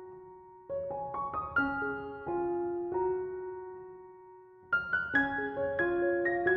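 Background piano music: single notes played one after another and left to ring, a short pause about four seconds in, then a new phrase.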